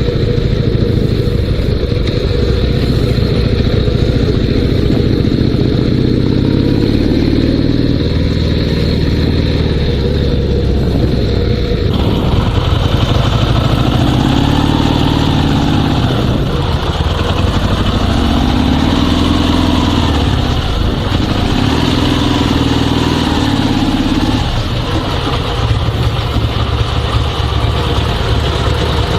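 Dnepr 16 sidecar motorcycle's 650 cc flat-twin engine running steadily under way in third gear. About twelve seconds in the sound turns suddenly brighter, and after that the engine's pitch rises and falls a few times as the throttle is worked.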